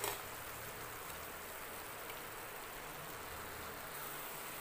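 Grated raw papaya cooking in ghee and sugar in a kadhai, a steady soft sizzle as the thinned sugary mixture cooks down.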